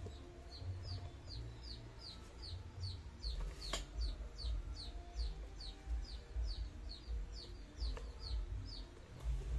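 A small bird chirping over and over, a high note falling in pitch about three times a second, over a low rumble, with one sharp click partway through.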